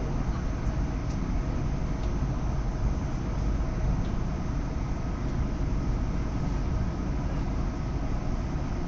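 Steady running noise inside a CRH6F electric multiple unit: a low rumble of the train rolling on the track, with a faint steady tone running through it.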